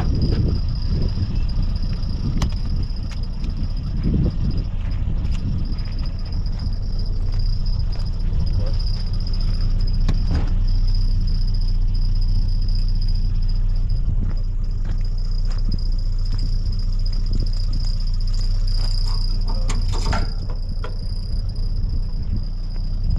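Insects, likely crickets, trilling in one steady unbroken high tone over a continuous low rumble, with a few scattered faint clicks.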